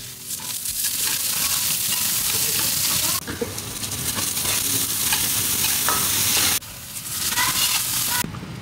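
Diced potatoes and scallions sizzling in hot oil in a heavy black pot while a metal spatula stirs and scrapes them. The sizzle drops sharply about three seconds in and again after six and a half seconds, then comes back.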